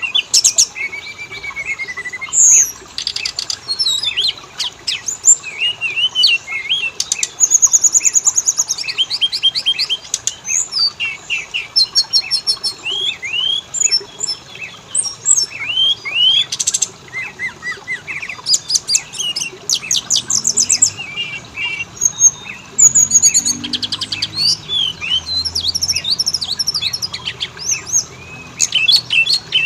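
Oriental magpie-robin (kacer) singing: a continuous, rapid stream of varied whistles, slurred notes and fast repeated trills with sharp clicking notes between them, played as a lure to set a kept bird singing.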